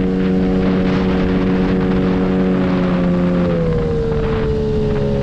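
9.8 hp outboard motor running at high revs, pushing an inflatable boat on a sport 10-pitch propeller; a steady engine note whose pitch drops a little about three and a half seconds in.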